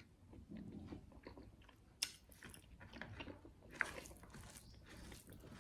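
A person chewing and crunching food, with sharp biting clicks about two seconds in and again near four seconds.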